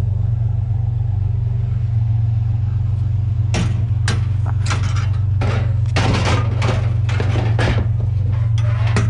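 Vehicle engine and road drone, heard from inside while driving, with a string of irregular rattles and knocks starting a few seconds in.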